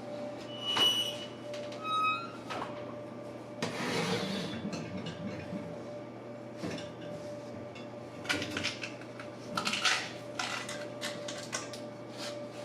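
Kitchen clatter: irregular clinks and knocks of pots, pans and oven hardware over a steady hum, with a short high tone about a second in.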